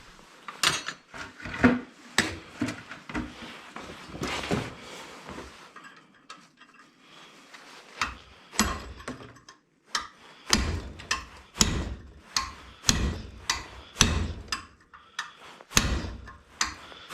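Hammer blows on a metal punch while knocking apart scrap to get at the copper. There are scattered knocks and clinks at first, then, about eight seconds in, a steady run of sharp strikes about two a second.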